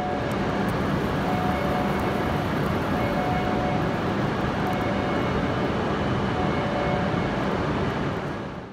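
Steady rushing noise of a Hokkaido Shinkansen train, with faint high tones that come and go every second or so, fading out at the end.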